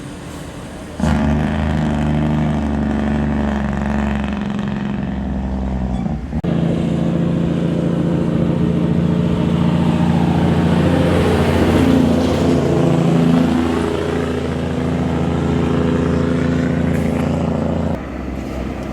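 Motor vehicle engine running under way, a steady drone that jumps louder about a second in and changes pitch about six seconds in.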